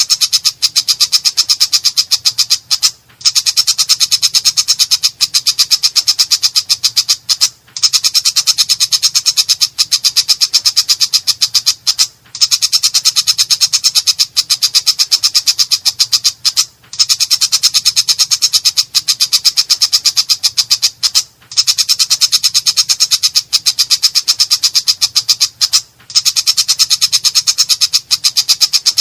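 Long-tailed shrike (cendet) singing a harsh, very fast chatter of rapid repeated notes, in even phrases about four and a half seconds long with short breaks between them.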